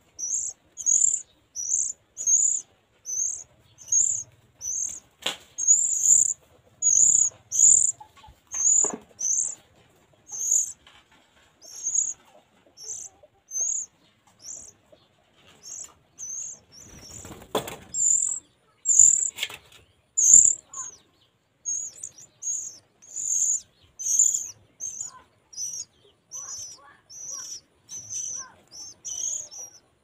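Oriental magpie-robin chirping at the nest: a steady series of short, high, thin chirps, about three every two seconds. A few soft knocks and a brief rustle come near the middle.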